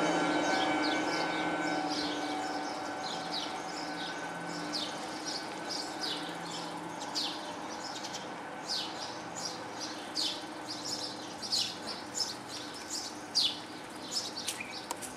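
Small birds chirping in quick, short, high notes, busier in the second half. A steady low hum fades away over the first several seconds.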